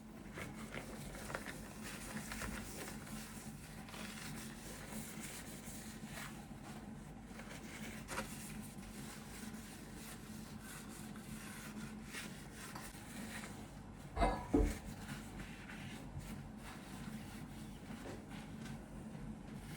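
Household handling noises: steady soft rubbing with scattered light clicks, and two louder knocks in quick succession about two-thirds of the way through.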